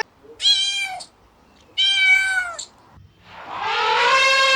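Domestic cat meowing: two short meows, then a longer drawn-out meow that begins about three seconds in and is held.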